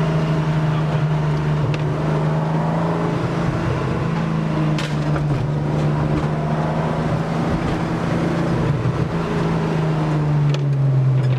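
Car engine running at steady revs, a continuous drone whose pitch drops to a lower steady note about ten seconds in, as the revs fall.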